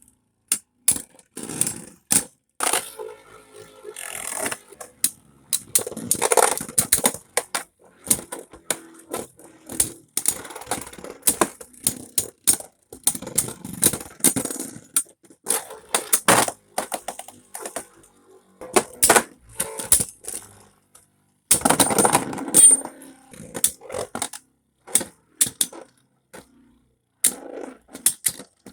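Metal Beyblade spinning tops clashing and scraping against each other in a plastic stadium: irregular sharp metallic clicks and knocks, with longer rattling stretches as the tops grind together, broken by short quiet gaps between battles.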